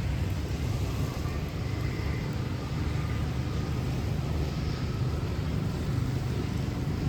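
Steady low rumble of city road traffic under an even hiss of light rain.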